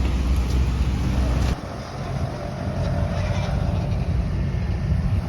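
Steady low rumble of a running vehicle engine, dropping abruptly in level about a second and a half in.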